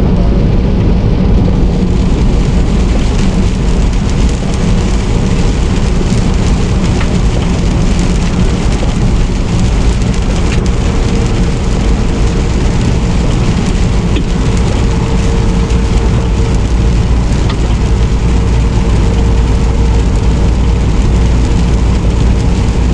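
Semi truck driving in the rain: a steady wash of rain and road noise over a low engine drone.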